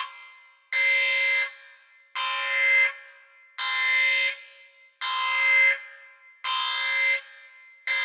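Alarm horn sounding in repeated buzzy blasts of a fixed pitch, each under a second long with a short fading echo, about one every second and a half, six blasts in all.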